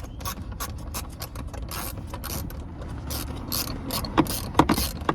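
Hand ratchet wrench clicking in quick, uneven strokes as a seatbelt mounting bolt is run in, with a few sharper metallic knocks near the end.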